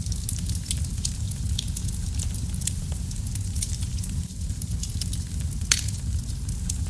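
Wood fire burning in a fireplace: a steady low rumble of flames with irregular small crackles and snaps, and one louder pop near the end.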